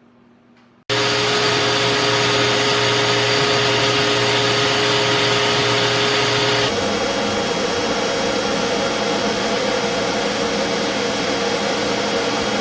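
DEWALT DXV06P 6-gallon wet/dry shop vacuum running: loud, steady airflow noise with a motor whine, cutting in abruptly about a second in. About two-thirds of the way through, its tone shifts and it gets slightly quieter.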